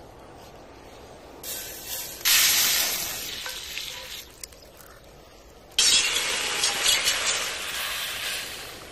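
Hot oil in a cast-iron skillet sizzling as bread slices are laid in. It starts suddenly about two seconds in and fades, then a second burst of sizzling starts suddenly as food is stirred in a hot pan with a wooden spatula, and it dies down near the end.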